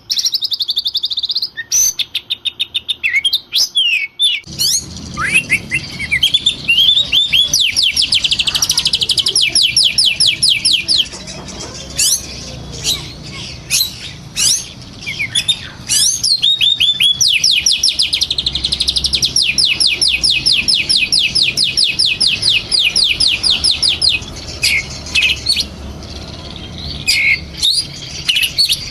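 Oriental magpie-robin (kacer) singing in an agitated, fired-up mood: varied whistles and chirps broken by two long, fast runs of repeated notes, one about a quarter of the way in and a longer one past the middle.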